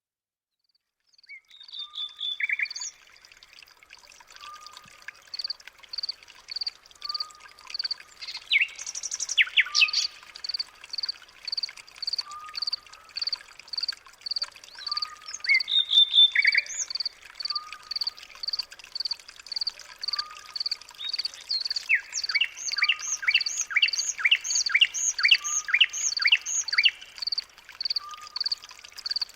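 Birds calling and singing, starting suddenly about a second in. A high note repeats steadily throughout, a lower short note repeats at an even pace beneath it, and near the end comes a run of quick downward-sweeping notes.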